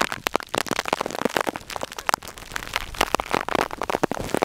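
Heavy rain striking the plastic zip-lock bag wrapped around the camera: a dense, irregular patter of close, sharp taps.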